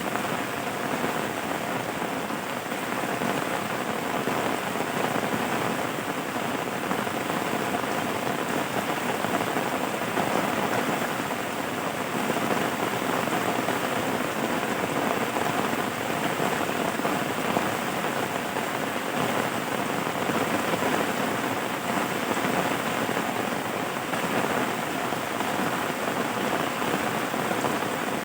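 Steady rain falling, a constant hiss of drops on a surface.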